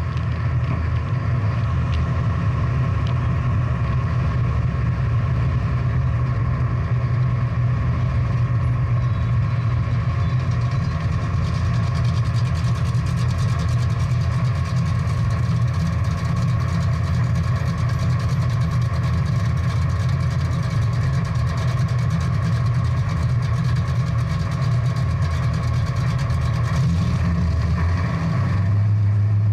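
Big-block V8 muscle car engine idling steadily, a deep even rumble with no revving.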